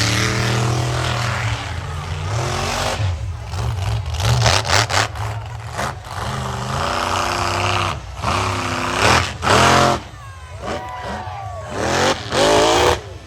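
Monster truck's supercharged V8 revving hard again and again, its pitch climbing and dropping, with the loudest pulls of the throttle near the end.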